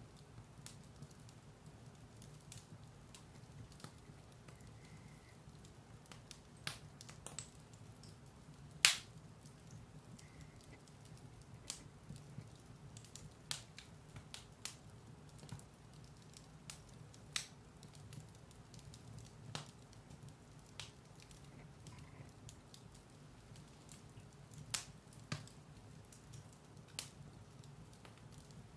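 Firewood burning in a fireplace: sparse, sharp crackles and pops every second or two over a faint, steady low background, with one much louder pop about nine seconds in.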